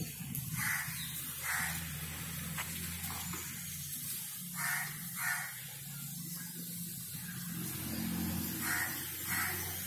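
A bird calling in pairs of short harsh notes, three times, over a low steady hum.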